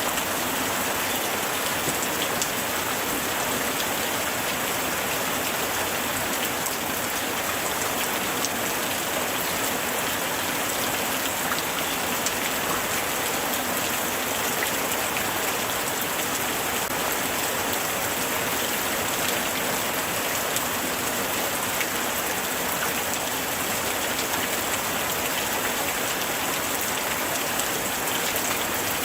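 Steady light rain falling on surfaces, a dense even patter of drops with many fine individual ticks and no let-up.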